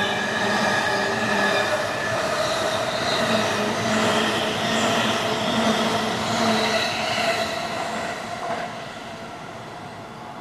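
An electric train running past, loud, with several steady whining tones over the rolling noise, fading away about eight seconds in.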